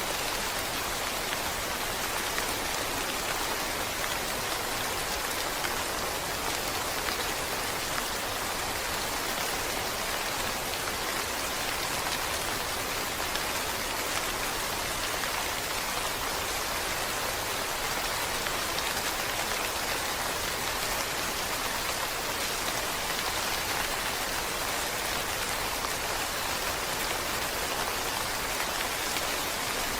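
Steady rain falling: an even, unbroken wash of many drops that neither rises nor falls.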